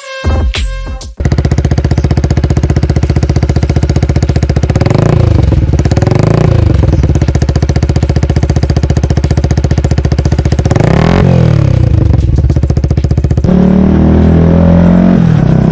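Yamaha MT125's single-cylinder four-stroke engine idling through a Black Widow aftermarket slip-on exhaust, revved twice, each rev rising and falling back to idle. Near the end the engine note rises and holds higher.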